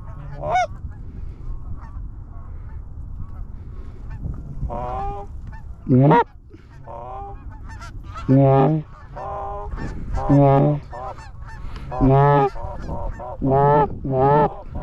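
Geese honking: a run of loud, drawn-out honks that break from a low note to a high one, coming thicker in the second half, with fainter honks between.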